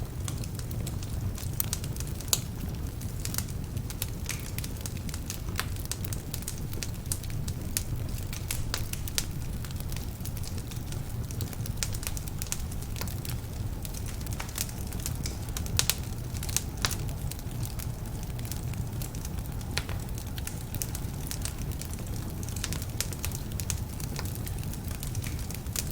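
Wood fire burning in a fireplace: a steady low rumble of flame with frequent irregular sharp crackles and pops from slightly damp logs.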